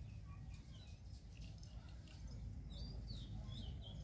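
Small birds chirping: a short run of high repeated notes trailing off at the start, then a few quick up-and-down calls about three seconds in, over a steady low rumble.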